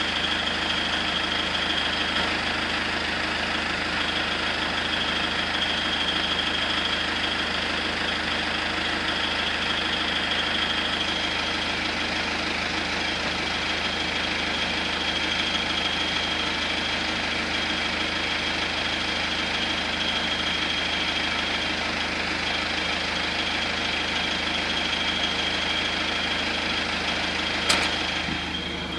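BMW 120d's four-cylinder diesel engine idling steadily, heard from inside the cabin. Over it comes an irregular high-pitched chirping noise from the engine that fades in and out, which the owner likens to a cricket. A sharp click sounds near the end.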